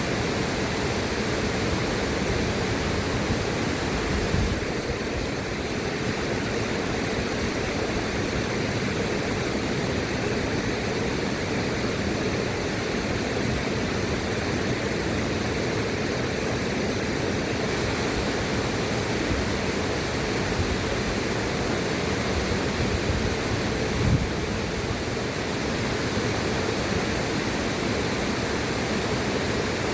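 River water rushing steadily, an even, unbroken flow with most of its weight in the low and middle range. One brief low knock sounds about three-quarters of the way through.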